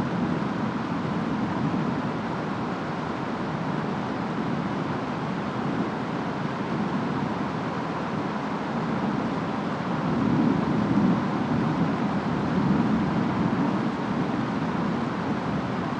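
Steady rainstorm ambience: rain and wind making an even rushing noise, with a low rumble swelling for a few seconds about two-thirds of the way through.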